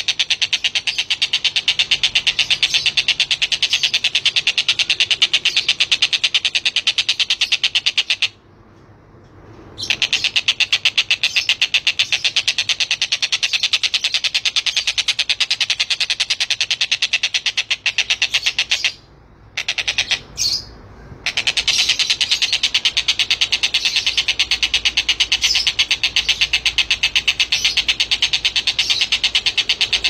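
Caged tengkek buto bird calling in a long, fast trill of rapidly repeated high notes. The trill breaks off briefly twice, about eight seconds in and again near the middle.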